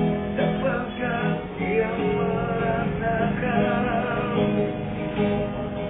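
Acoustic guitar strummed in a steady rhythm, accompanying a song between sung lines.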